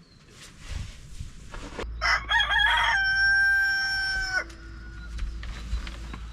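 A rooster crows once, about two seconds in: a broken start, then a long held note that drops off at the end.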